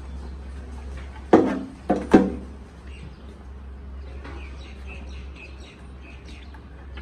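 Three sharp, loud knocks in quick succession, about a second in, over a steady low hum. Small birds chirp faintly in the background later on.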